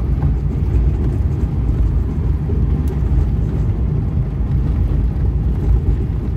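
A car driving down a rough dirt mountain track: a steady low rumble of engine and tyres on the track.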